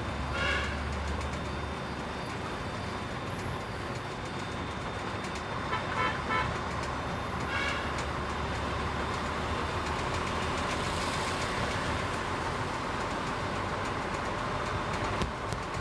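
Busy road traffic with a steady low engine rumble, broken by short vehicle horn toots: one about half a second in, a quick double toot around six seconds, and another just after.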